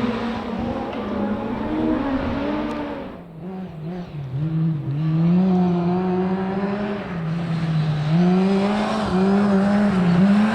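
Rally car engine running hard through a corner, its pitch rising and falling over and over as the driver works the throttle and changes gear. The engine sound drops away briefly about three seconds in, then returns louder.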